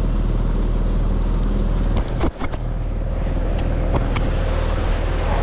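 Mercury 9.9 hp outboard idling steadily under wind noise on the microphone, with a few sharp clicks and a brief dip about two seconds in.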